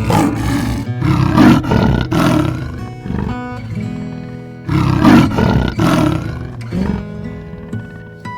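A large animal roaring in two bouts of rough, loud calls, a few seconds apart, over steady background music.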